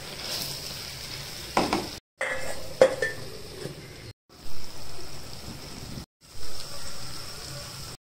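Brinjal pieces sizzling in a clay pot, with a wooden spatula stirring and knocking against the pot a couple of times. The sizzle cuts off abruptly into brief silences about every two seconds.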